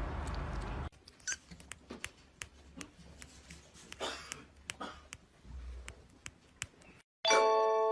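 Faint high squeaks and mews from a small kitten among scattered soft clicks, after a steady noisy hiss that cuts off about a second in. Near the end a loud bright chime tune starts.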